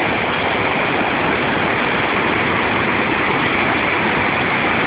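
Large waterfall's rushing water, a steady, unbroken noise.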